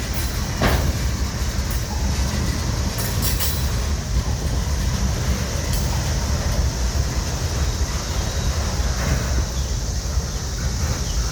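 Freight train cars rolling past close by: a steady heavy rumble with wheel clatter on the rails and a few sharp clicks in the first few seconds.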